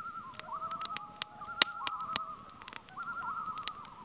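A bird calling in several runs of quick wavering notes, with sharp clicks scattered among them.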